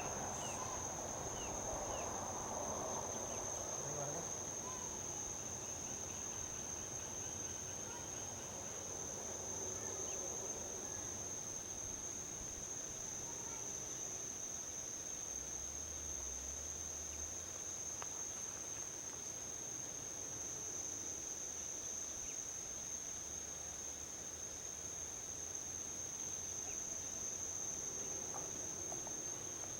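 A steady, high-pitched insect drone, a forest insect chorus, over a faint low rumble of distant highway traffic.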